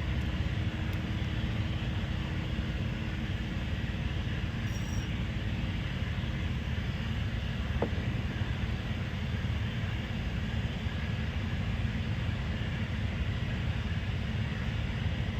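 Steady low rumbling noise with no rhythm or pitch, and a single faint click about eight seconds in.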